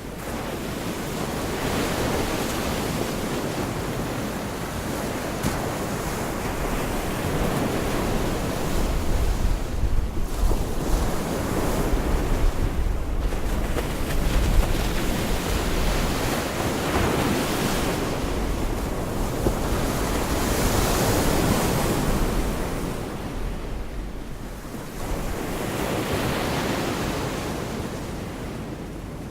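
Gulf of Mexico surf breaking and washing up the beach, swelling and falling back every few seconds, with wind rumbling on the microphone.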